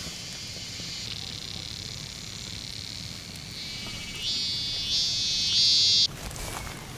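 An insect singing outdoors: a steady high buzzing that grows louder in steps from about four seconds in and stops suddenly about a second before the end.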